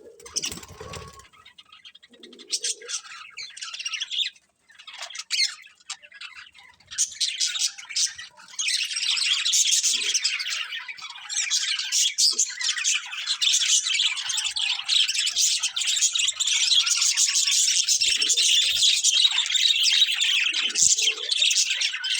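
Budgerigars chirping and chattering: scattered calls at first, then from about eight seconds in a dense, continuous chatter of overlapping high chirps.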